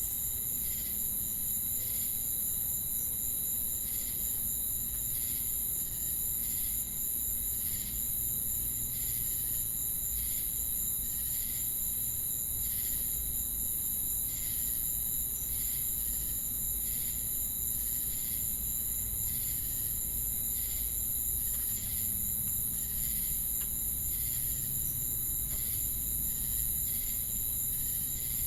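Insect chorus of crickets and cicadas: a steady, high-pitched shrill drone, with a chirp repeating evenly a little more than once a second.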